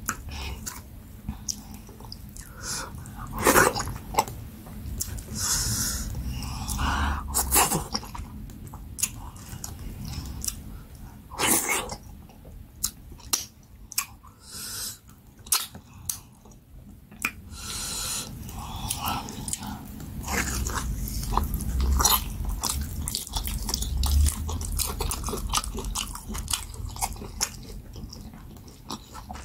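Close-miked chewing of cooked goat head meat, with many irregular sharp mouth clicks and smacks.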